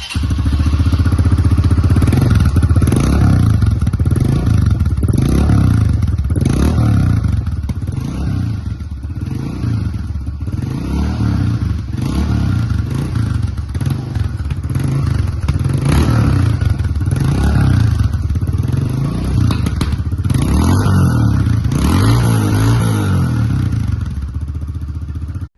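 Honda CRF125F dirt bike's single-cylinder four-stroke engine through an FMF exhaust, revving up and dropping back over and over, with some clatter. The sound cuts off suddenly at the end.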